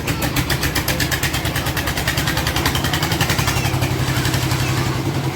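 Concrete mixer's engine running steadily, with a rapid, even pulsing chug.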